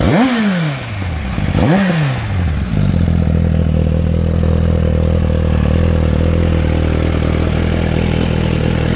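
2017 Suzuki GSX-R1000's inline-four engine blipped twice, about a second and a half apart, each rev rising sharply and falling away, then idling steadily.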